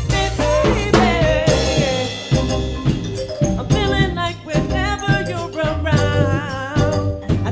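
Band music: a song with a drum kit keeping the beat under pitched instruments, with wavering melodic lines from about four seconds in.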